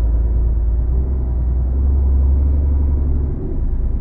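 Lorry's diesel engine running with a steady low rumble while the truck moves slowly, easing briefly about three seconds in.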